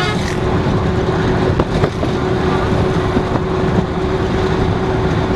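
A vehicle driving on a road: steady rumble and road noise with a constant hum.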